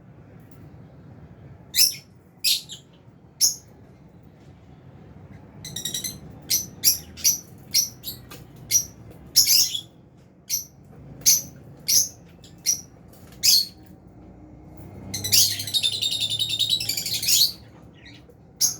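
A flock of lovebirds calling in an aviary: short, sharp, high chirps, one after another, and one longer unbroken chattering call about fifteen seconds in.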